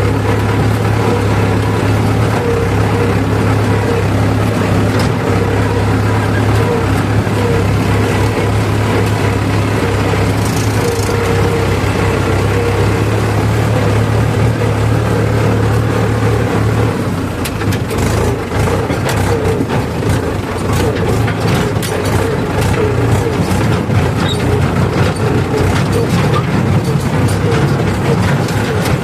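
Heavy diesel engine of farm machinery running steadily under load. Its low hum weakens about seventeen seconds in, with scattered clanks and knocks, and comes back near the end.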